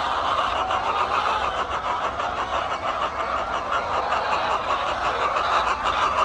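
A large flock of hens in a crowded henhouse, a steady din of many birds clucking and calling at once.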